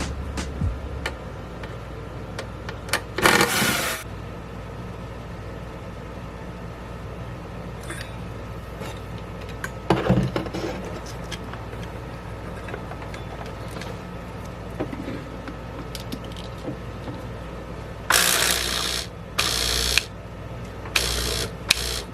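Repair work on an espresso machine: scattered clicks and clatter of parts and tools being handled, a knock about ten seconds in, and several short noisy whirring bursts near the end, over a steady low hum.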